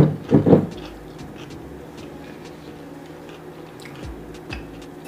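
A person chewing a mouthful of food, with two short loud hummed sounds right at the start and scattered soft mouth clicks after.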